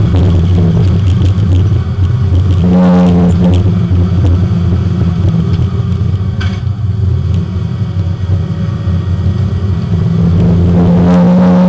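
Porsche 924 race car's four-cylinder engine heard from inside the car on track, its note shifting in pitch a few times as the revs change, easing off in the middle and picking up again near the end.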